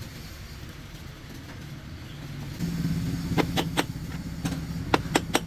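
An engine running steadily, its low hum growing louder about two and a half seconds in, with a quick run of sharp metallic clanks near the end.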